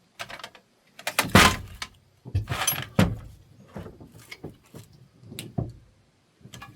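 Metal tools clattering as someone rummages for a socket: an uneven string of clanks and knocks, loudest a little over a second in and again near three seconds in.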